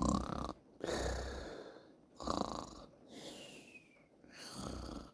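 A person making snoring noises: about five rough breaths in and out, one of them ending in a falling whistle.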